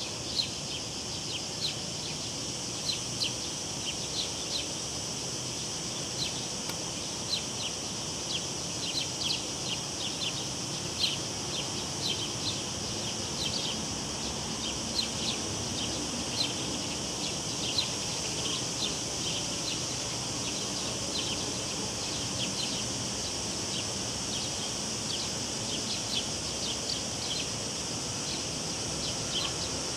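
Cicadas droning steadily in a high band, with a bird's short high chirps repeating irregularly over it and a low, even background hiss.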